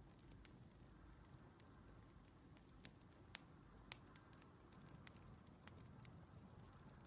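Faint crackling of a wood fire: sharp, irregular pops and snaps over a low, steady rumble, the loudest a little past the middle.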